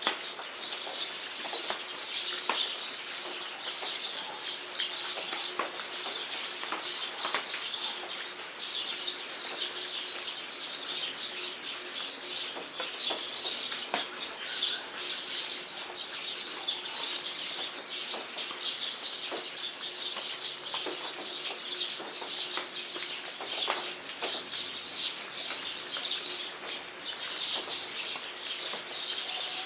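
Steady rain with many sharp individual drips and pats, and small birds chirping throughout.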